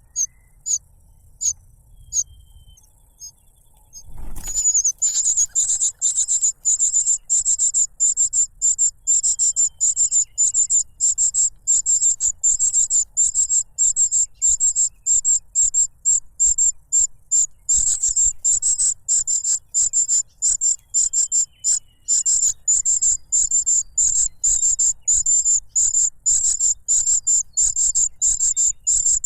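Cuckoo chick begging for food: a few scattered high, thin notes, then from about four seconds in a rapid, non-stop series of shrill begging calls.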